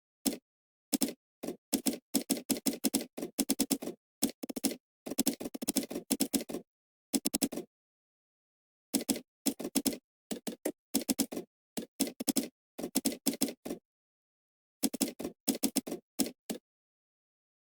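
Computer keyboard typing in quick runs of keystrokes, broken by short pauses, with a pause of over a second about eight seconds in and another near the three-quarter mark.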